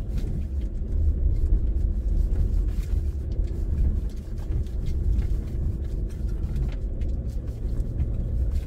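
Subaru XV hybrid's flat-four engine heard from inside the cabin, held at high revs in a very short gearbox ratio as the car climbs a steep, stony dirt track, with a steady low rumble. Stones knock and crunch under the tyres. The drivetrain is labouring.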